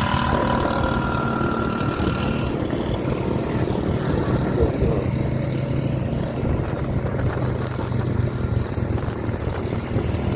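Motor vehicle engine running steadily with road noise, a low even drone; a thin higher whine fades out about two seconds in.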